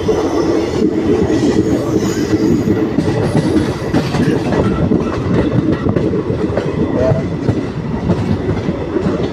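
Passenger train running, with a steady heavy rumble and the rapid clatter of wheels over the rails.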